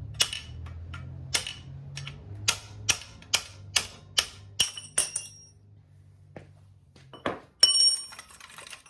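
Hammer blows on a steel punch, about a dozen sharp metal strikes with a ringing note over the first five seconds, driving out a stuck part on the engine's crank pulley. Near the end comes a louder metallic clatter.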